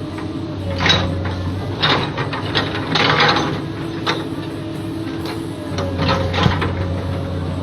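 Komatsu long-reach excavator running, its diesel engine humming steadily with a hydraulic whine that shifts in pitch and swells about a second in and again near six seconds. Several sharp knocks and clatters come through on top.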